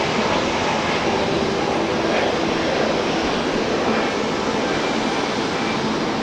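Airbus A321neo airliner's jet engines at takeoff power, a loud steady noise that eases a little toward the end.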